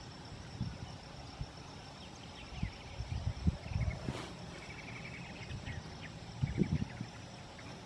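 Wind gusting against the microphone in low rumbling buffets, loudest about halfway through and again near the end, over a steady high insect drone and scattered short bird chirps.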